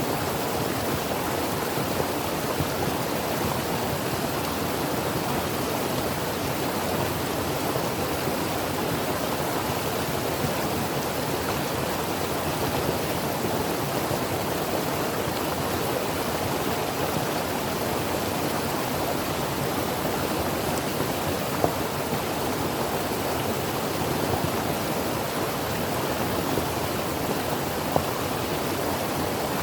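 Creek water flowing steadily over rocks, an even rushing sound with a few brief splashes.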